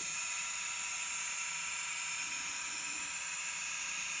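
Two N scale Kato SD70 model diesel locomotives, fitted with XL Systems sound decoders, running together on the track: a steady hiss and whir of the decoder sound and the running mechanisms.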